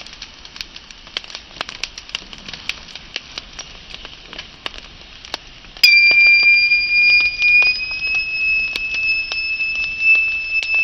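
Wood fire crackling, with sharp pops. About halfway through, a loud, steady high-pitched whistle starts suddenly, rises slightly in pitch and holds on over the crackling.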